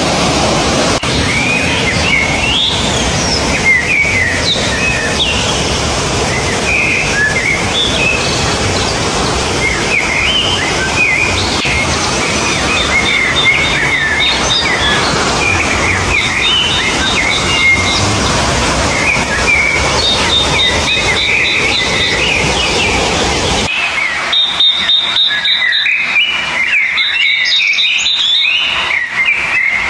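Many small birds chirping and singing over a steady rush of flowing water. The water sound cuts off abruptly about 24 seconds in, leaving the birdsong on its own with a repeated high pulsing note.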